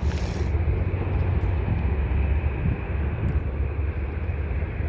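Jet airliner engines making a steady, low roar, with a rumble underneath.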